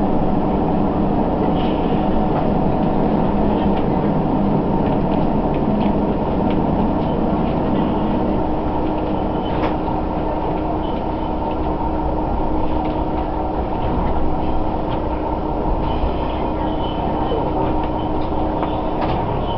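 Diesel railcar running on the non-electrified Sanriku Railway line, heard from inside: a steady rumble of engine and wheels on the rails with a steady hum that fades out near the end, and a few light clicks and rattles.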